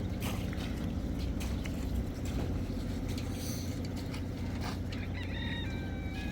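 An engine running steadily with a low drone, with scattered knocks over it. Short high-pitched calls come in near the end.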